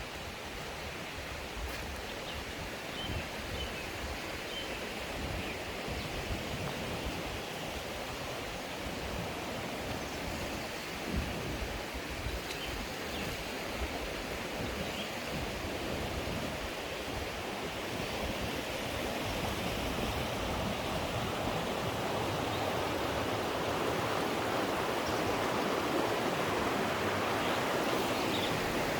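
Rushing water of a mountain stream, a steady churning noise that grows gradually louder.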